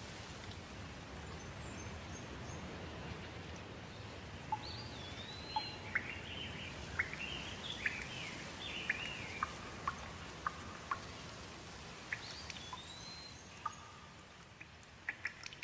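Steady rain with a bird singing short whistled phrases that rise and fall, and scattered water drips. Near the end the rain fades and the drips stand out.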